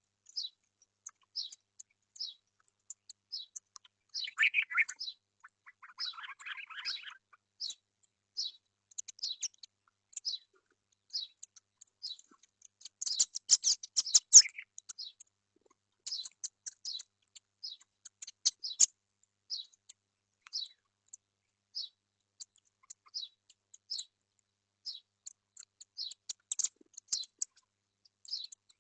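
Small birds chirping: short high chirps repeating about once a second, with a lower rapid chatter a few seconds in and a louder burst of dense chirping around the middle.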